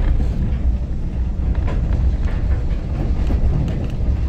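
Heritage railway carriage running along the track, heard from inside: a steady low rumble of wheels on rails with faint scattered clicks.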